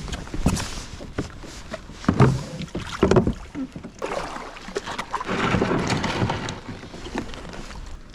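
Kayak on the water: irregular splashes and hollow knocks against the hull, with a longer swash of water about two-thirds of the way through.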